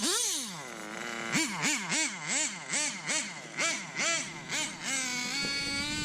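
Nitro RC car engine winding down, then revved in quick throttle blips about four a second, then held at a steady high pitch near the end as it runs on.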